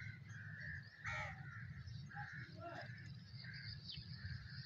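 Birds calling outdoors: repeated short cawing calls, the loudest about a second in, over a steady low rumble.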